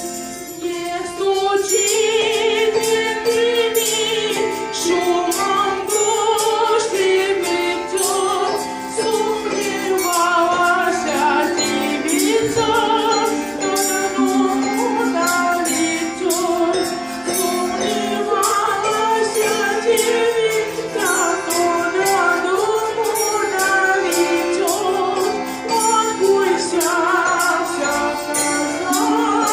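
A vocal ensemble sings a Russian folk song together over instrumental accompaniment, with a steady rhythmic percussion beat.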